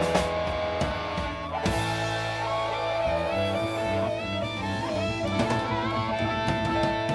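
Live blues band playing an instrumental passage: electric guitar lead with bending, sliding notes over bass and drums.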